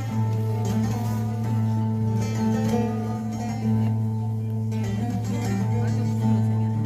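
Plucked string instrument playing an improvised opening passage of quick runs of notes, with a steady low note sounding underneath.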